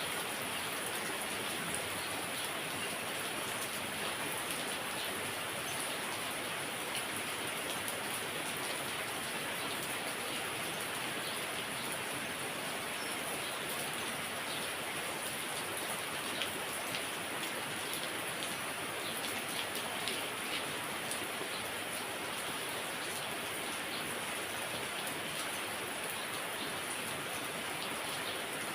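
Heavy rain falling steadily: an even hiss with scattered individual drop hits.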